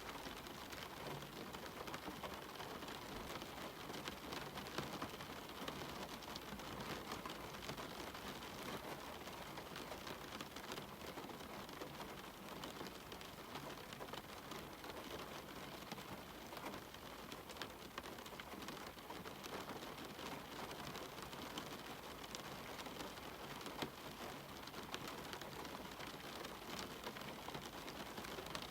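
Steady rain falling, a constant hiss dotted with the fine patter of individual drops, with the odd slightly louder drop.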